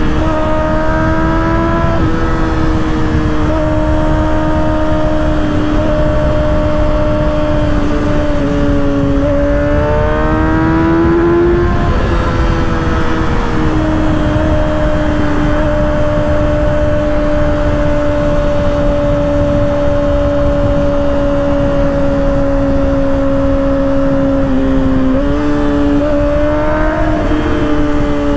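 2024 Kawasaki ZX-6R's inline-four engine with an M4 aftermarket exhaust, running under way. Its pitch steps a few times, rises about ten seconds in, then holds steady through the middle and steps up again near the end, over a steady low rushing noise.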